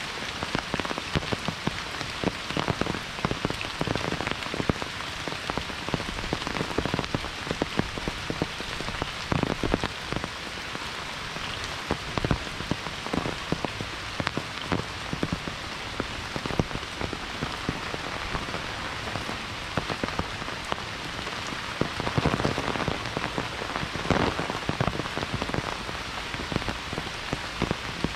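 Steady monsoon rain falling, with many sharp individual drop hits close by throughout.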